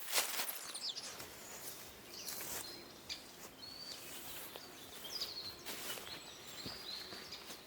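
Small birds chirping now and then over a steady outdoor hiss, with a few short rustling noises.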